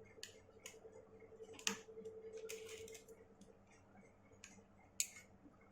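Faint, scattered small clicks and taps of a precision screwdriver and tiny metal parts working on an opened iPhone 6S Plus, removing the screws of the battery connector cover.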